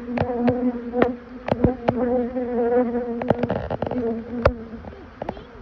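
Honeybee buzzing close by, a steady hum that fades out about four seconds in, with sharp clicks and taps scattered throughout.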